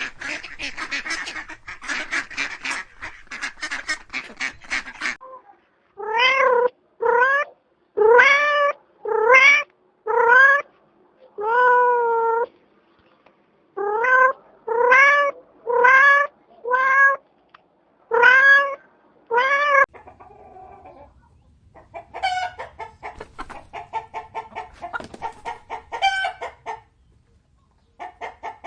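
A cat meowing about a dozen times, each meow a separate call that rises and then falls in pitch. The meows come between two stretches of a rapid, pulsing animal call, one at the start and one near the end.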